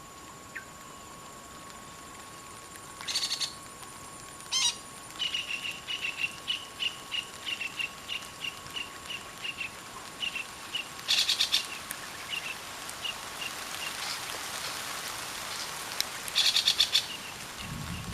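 Parakeets calling: three short bursts of harsh, rapid screeching, with a long run of short, evenly repeated high notes, about three a second, between them.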